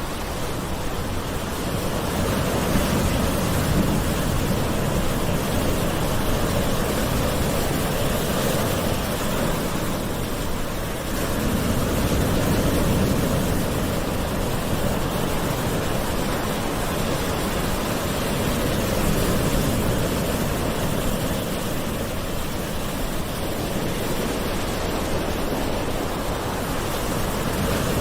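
Gentle ocean waves washing onto the shore: a steady rush of surf that swells and eases every several seconds.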